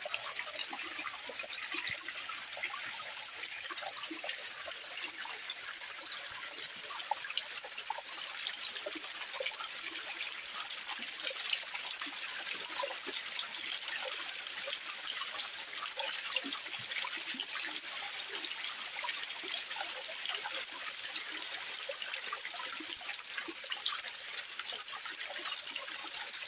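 A small flow of water trickling steadily, a constant rush dotted with many small irregular plinks and splashes.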